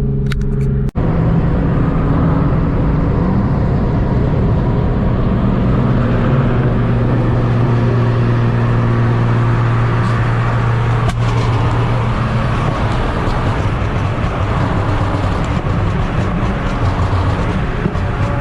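Car engine running steadily at cruise while driving, over road and wind noise, with a brief break about a second in.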